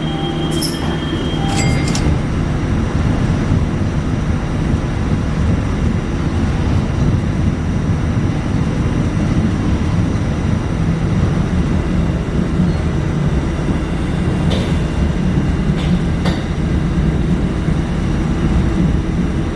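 Tokyu-built light rail car running, heard from inside: a steady rumble of motors and wheels on the rails. A few brief high tones and clicks come in the first two seconds.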